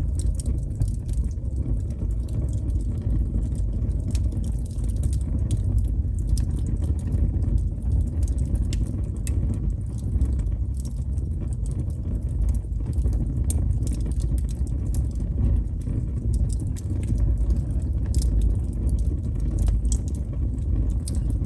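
Wood fire burning with a steady low rumble and frequent small, sharp, irregular crackles and pops.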